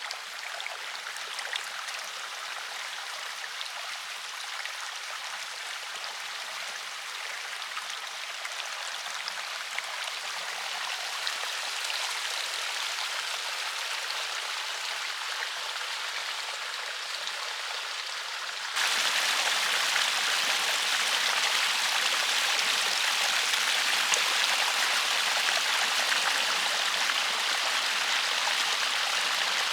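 River water flowing and rushing in a steady wash. About two-thirds through, it suddenly becomes louder and fuller.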